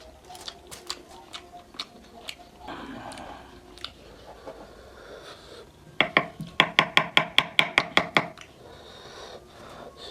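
Scattered light clicks and clatter, then about halfway through a fast run of about a dozen sharp, ringing knocks, roughly six a second, lasting about two seconds: food being chopped or struck against a hard surface.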